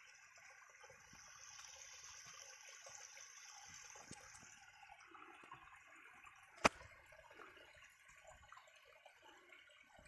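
Faint trickling water, with a single sharp click about two-thirds of the way through.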